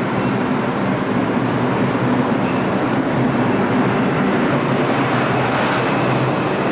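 A Bombardier R142 subway train moving through the station: a steady rolling rumble with a low hum underneath.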